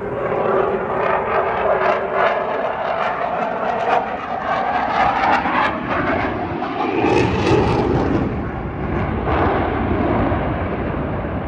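Fixed-wing aircraft engine droning as an aeroplane flies past, its pitch slowly shifting, with a change in the sound about seven seconds in.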